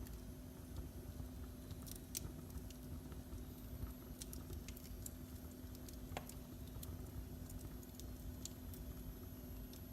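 Wood fire in a fireplace crackling faintly, with sparse scattered snaps and pops over a low steady rumble.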